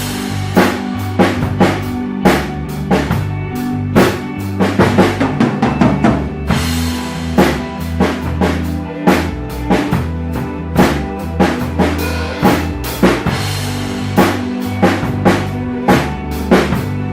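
Drum kit played along to an ambient rock backing track: steady kick and snare strokes under sustained low bass notes, with bright cymbal-like washes at the start and again about six and a half seconds in.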